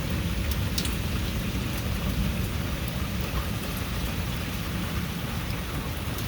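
Heavy rain falling steadily, with a low, continuous rumble of thunder underneath.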